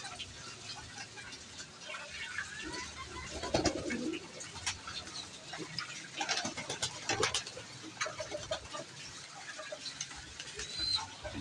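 Pigeons cooing, with a low coo about three and a half seconds in, amid scattered short clicks and small high chirps.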